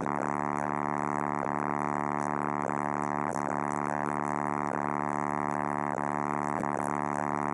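Car-audio subwoofers playing a single sustained low bass tone, the steady note used for a 'hair trick'. It holds one unchanging, droning pitch throughout.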